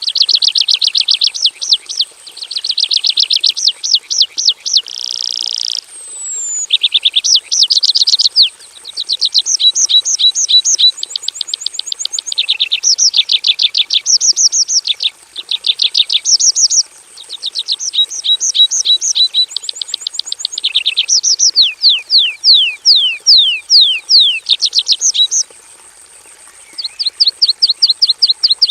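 Horsfield's bush lark (Javan bushlark) singing a long, varied song of fast trills and quick runs of downward-sweeping whistled notes, phrase after phrase with only short breaks.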